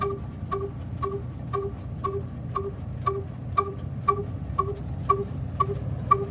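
Old black diesel engine running, with an even ringing metallic knock about twice a second over a low steady drone.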